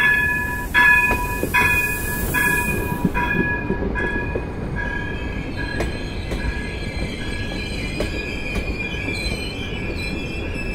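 Alstom Coradia iLint hydrogen train arriving slowly: its warning bell rings about once every 0.8 seconds, fading out over the first half. Then a wavering high wheel squeal and a few clicks of wheels over rail joints come in as the cars roll past.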